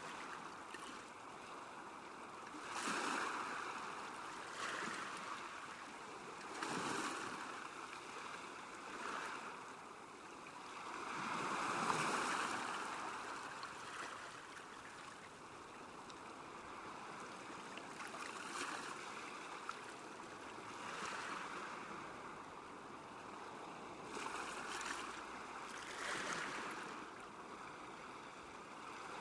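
Small lake waves lapping at the shore: a steady wash of water that swells and fades every few seconds, the biggest swell about twelve seconds in.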